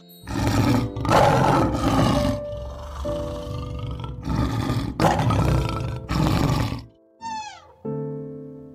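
A large animal roaring in several long, rough calls over background music, then one short call falling in pitch near the end.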